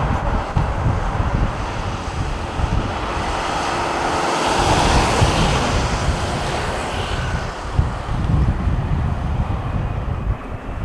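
Twin-engine widebody jet airliner passing on approach to land, its engine noise swelling to a peak about halfway through and then fading. Wind buffets the microphone throughout.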